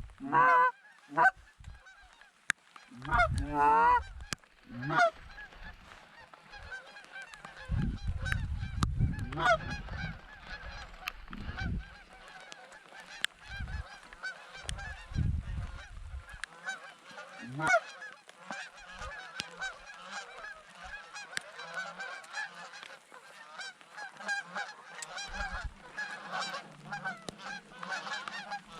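Geese honking: a few loud single honks at first, then a big flock calling over one another without a break. Low rumbles on the microphone come and go in the middle.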